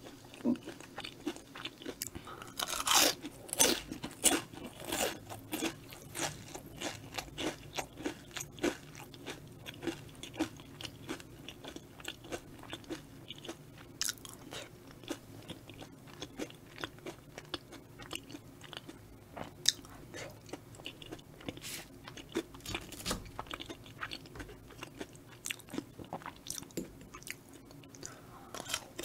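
A person biting and chewing battered Korean fried food (twigim) close to the microphone: crisp crunches, thickest about three to six seconds in, then steady, spaced chewing crunches.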